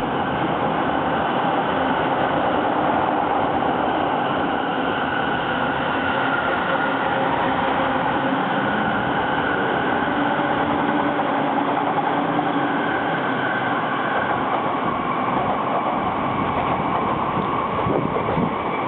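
Electric commuter train running steadily at speed: the constant rolling noise of wheels on rails, with a few faint steady tones above it.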